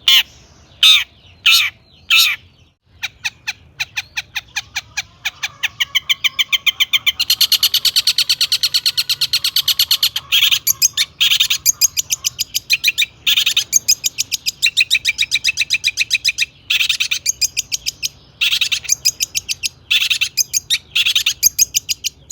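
Long-tailed shrike (cendet) singing a loud, mimicry-filled song. A few harsh calls come first, then long runs of rapid chattering notes, several a second, with harsh calls mixed back in.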